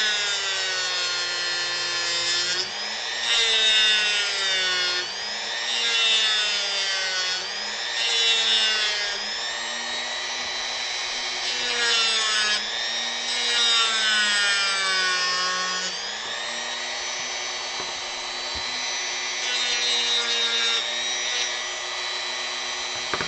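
Dremel rotary tool running at high speed and cutting into wood. Its whine sags in pitch as the bit is pressed into the wood and climbs again as it is eased off, about every two seconds, then holds steadier over the last third.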